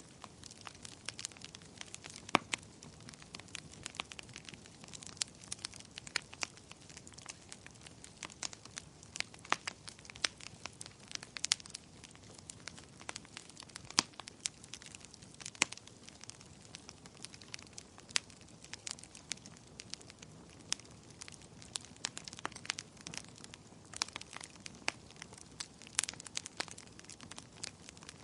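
Wood fire burning in a fireplace: a soft steady hiss with irregular sharp crackles and pops, a few of them much louder than the rest.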